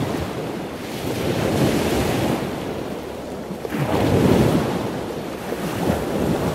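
Rushing water noise, like surf, swelling and ebbing twice.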